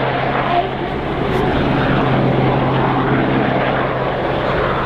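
Westland Sea King helicopter running steadily, its rotor and twin Rolls-Royce Gnome turboshaft engines making an even noise with a steady low hum.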